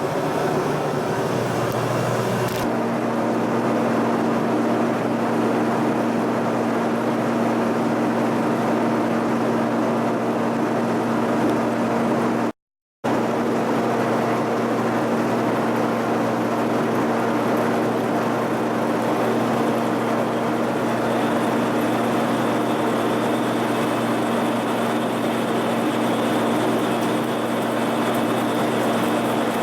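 Drilling machine running steadily with a constant hum as it drills a hole through a metal bracket; the sound cuts out briefly once near the middle.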